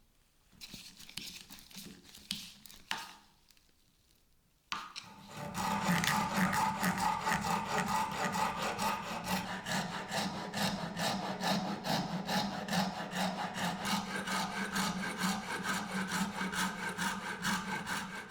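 A hand tool working wood with rapid, even back-and-forth strokes, as in sawing or rasping a wooden knife handle. The strokes start about five seconds in, after a few brief handling knocks and scrapes.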